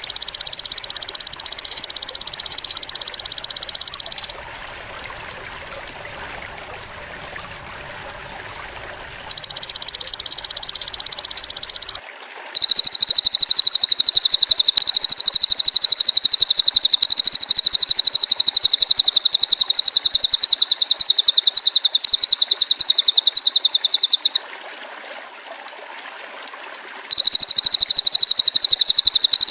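Masteran recording of a cililin bird and a golden grasshopper (belalang emas): loud, high-pitched, rapidly pulsing trills lasting several seconds each, broken by short pauses of faint hiss. Two kinds of trill alternate: a narrower buzz in the first twelve seconds and a wider, higher one from about twelve seconds on.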